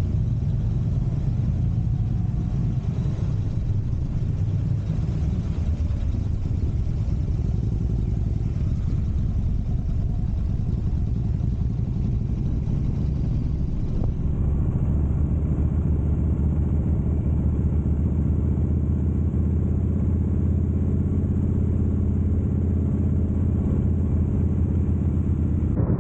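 Buell Firebolt XB12R V-twin motorcycle riding along, a steady low rumble of engine and road noise. About halfway through it settles into an even, stronger drone.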